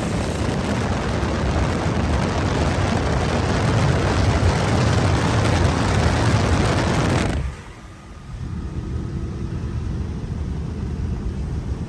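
A car running hard at full throttle, its engine and exhaust loud and dense. The noise drops off sharply about seven seconds in to a quieter engine sound.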